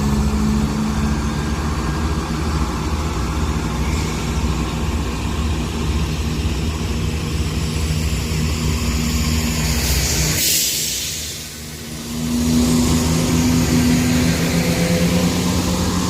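A pair of coupled Class 168 diesel multiple units pulling out of the station, their diesel engines working under power with a steady low drone. About ten seconds in, the engine sound dips for a second or two behind a brief hiss, then returns.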